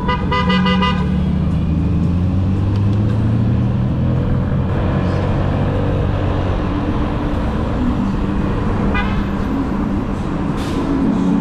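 Road traffic heard while riding: a steady low engine drone with road and wind noise, and a vehicle horn honking in the first second and again briefly about nine seconds in.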